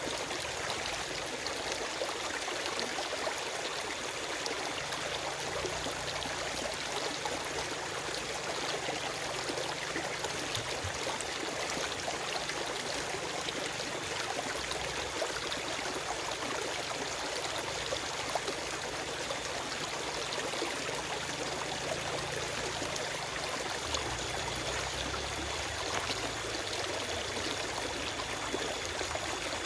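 Forest stream running over rocks: a steady rush of water with small splashes and trickles, no birds.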